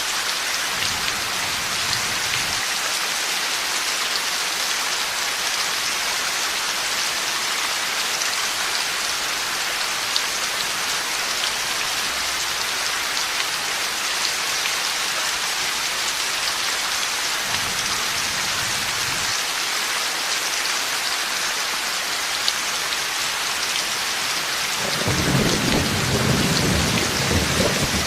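Heavy rain falling steadily with thunder in a thunderstorm: faint rumbles near the start and about two-thirds of the way in, then a louder rolling rumble near the end.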